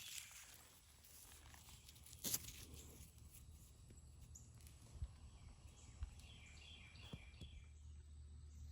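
Near silence, broken by a few faint, separate knocks, with a short faint chirping about seven seconds in.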